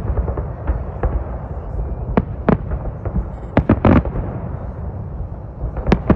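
Aerial salute fireworks bursting overhead in an irregular series of sharp bangs, several in quick succession about four seconds in, over a steady low rumble.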